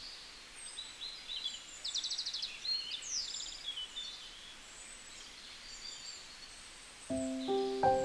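Outdoor birds calling: several short chirps and whistles, with two quick rattling trills about two and three seconds in. Background music with held notes comes in near the end.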